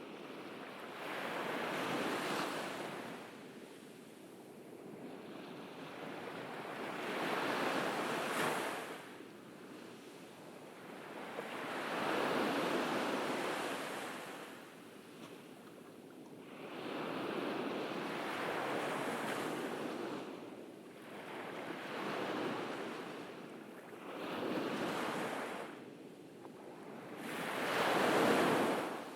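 Ocean waves breaking on a beach, rising and falling in about seven surges a few seconds apart; the loudest comes near the end.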